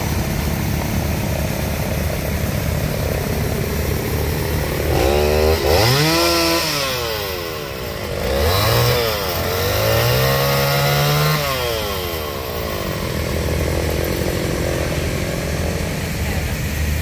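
Small petrol engine running at idle, revved up twice, about 5 s and again about 8.5 s in, each time holding high revs for a few seconds before dropping back to idle.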